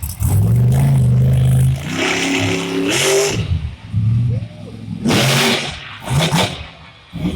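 Monster truck engines revving hard in repeated bursts, the pitch climbing and dropping with each stab of the throttle.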